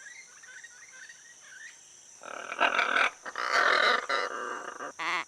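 Great green macaws giving harsh, raspy squawks, starting about two seconds in and ending with a short pitched call. Under them are a steady high insect drone and faint bird chirps.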